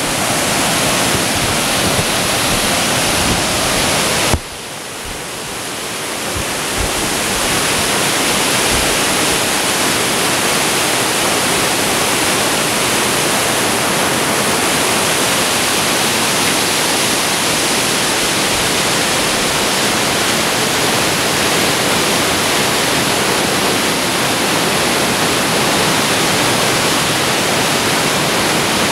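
Waterfall: a loud, steady rush of falling water. About four seconds in it drops suddenly and then swells back over the next few seconds.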